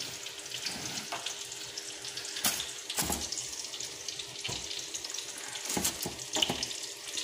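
Food sizzling in a hot pan: a steady hiss with scattered crackling pops. A few sharp metallic clicks from a pot lid being handled come near the middle and toward the end.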